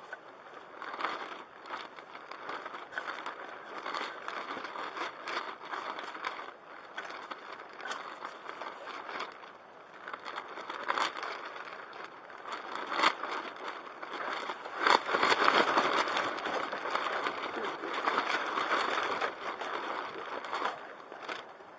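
Irregular rustling and crackling with many scattered sharp clicks, growing louder in the last third.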